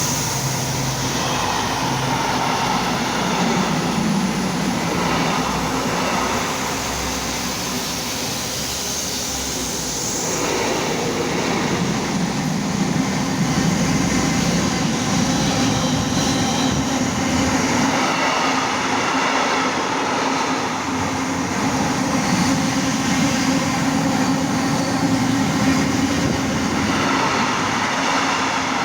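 Class 70 diesel locomotive hauling a freight train past, with steady engine noise and the wagons' wheels running over the rails.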